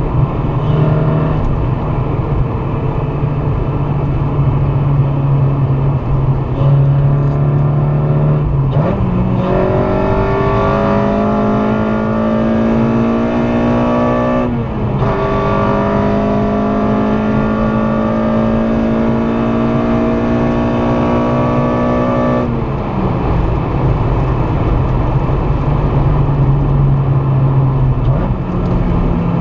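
Honda Civic Si's swapped-in K24A2 2.4-litre four-cylinder engine under hard acceleration. It holds a steady note, then about a third of the way in its pitch jumps and climbs slowly. The note dips briefly at a gear change about halfway, climbs again, and falls back to a steady note about three-quarters of the way through.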